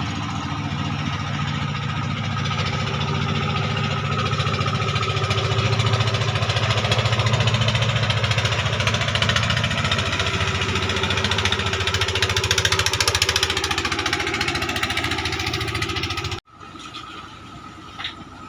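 Klotok river boat's engine running steadily, growing louder through the middle. Near the end it cuts off abruptly to a much quieter background.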